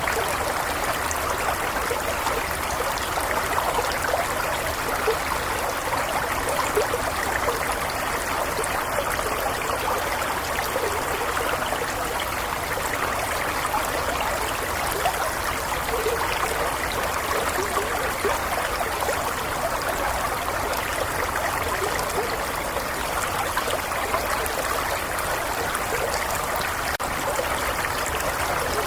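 A small stream flowing steadily, an even rush of water with fine trickling and bubbling.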